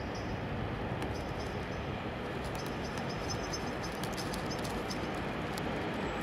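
Electric freight train running along the tracks: a steady rumble of wheels and wagons, with light high clicks over it.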